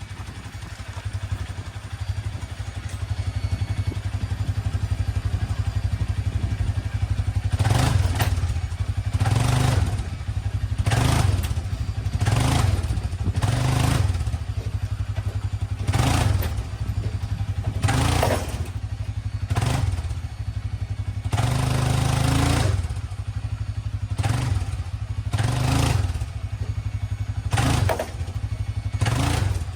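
Four-wheeler engine idling steadily, then given repeated short bursts of throttle about every second and a half to two seconds from about eight seconds in, one of them longer, to tug a chain pulling a bent truck fender bracket outward.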